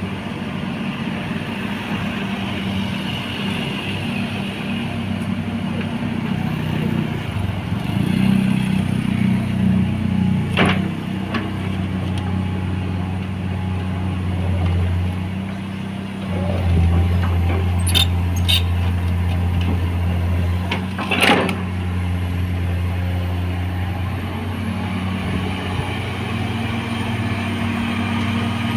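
Truck engine running steadily at low revs, with a few short, sharp knocks or hisses partway through.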